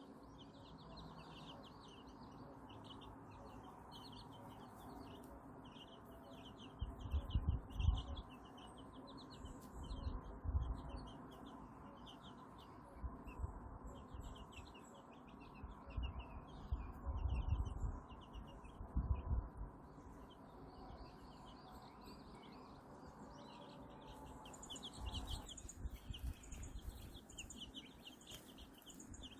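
Small birds chirping: runs of quick, high peeps that keep going with short breaks, which fits the newly hatched Silkie chicks. Several brief low rumbles come through now and then.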